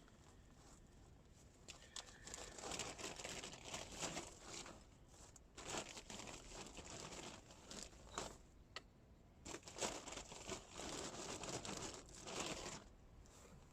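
Irregular crinkling and rustling in bursts, with a few sharp clicks, as something crinkly is handled.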